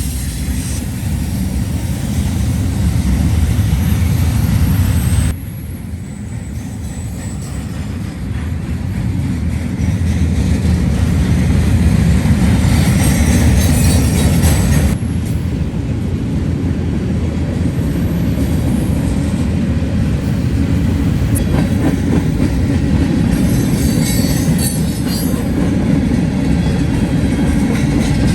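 Freight train rolling past: a steady, loud low rumble of rail cars and wheels on the track. The sound changes abruptly twice, about five seconds in and about fifteen seconds in.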